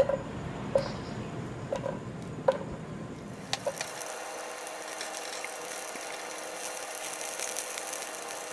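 Sliced carrots tipped into an enamel pot of hot oil, with a few sharp clicks and knocks as they land and are pushed about. About three and a half seconds in, a steady sizzle starts as the carrots fry while stirred with a spatula.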